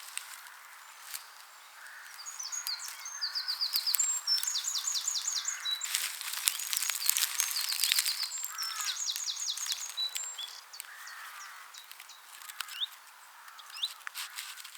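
Songbirds singing outdoors, several phrases of rapid, repeated high notes, with a busy stretch of crackling clicks in the middle.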